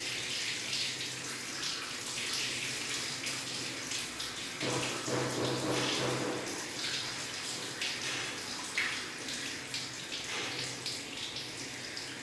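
Rain falling and splashing in a steady rush, with a faint steady hum underneath that swells briefly in the middle.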